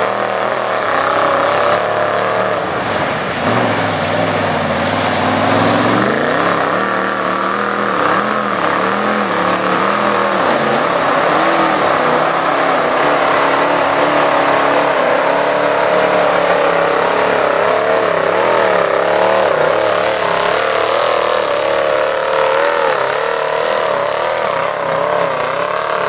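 Mud truck's engine running loud through cherry bomb mufflers, its revs repeatedly rising and falling, with a climb about six seconds in.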